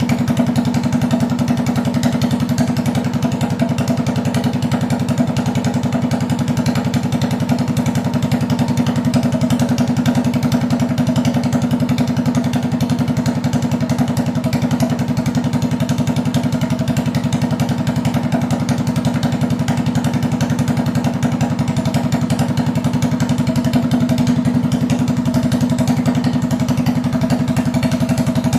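Minibike engine idling steadily at one even speed, with a constant low drone and no revving.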